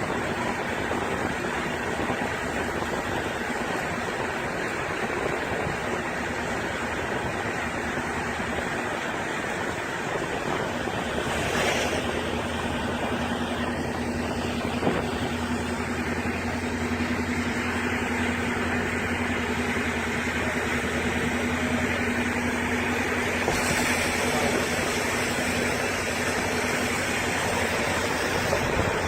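Steady rushing road and rain noise inside a small Chevy pickup's cabin as it drives fast through heavy rain. A low engine drone holds steady through the middle.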